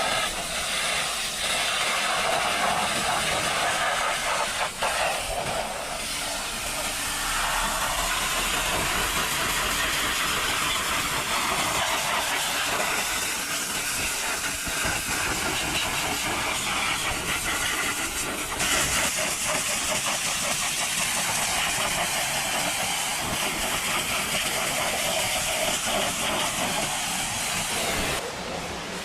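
High-pressure water spray from a car-wash jet hissing steadily against a car, changing a little in tone a couple of times and easing off just before the end.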